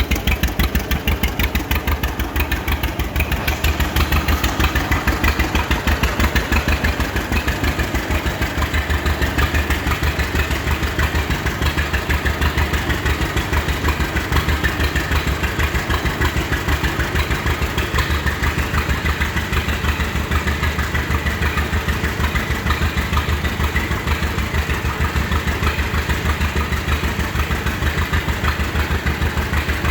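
John Deere BO Lindeman crawler's two-cylinder engine running steadily at idle with an even, rapid pulsing beat, warming up soon after a cold start and running well.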